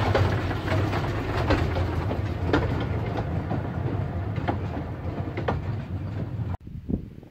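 A two-foot gauge train rolling past: a steady low rumble with irregular sharp clicks of wheels over rail joints. The sound cuts off abruptly about six and a half seconds in.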